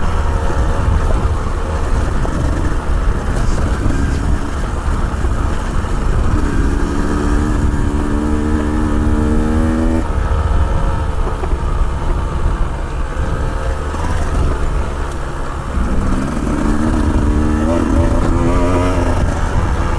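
Motorcycle engine running under way over heavy wind rumble on the microphone; the engine note holds steady for a few seconds in the middle, drops away suddenly, then rises again as the bike accelerates near the end.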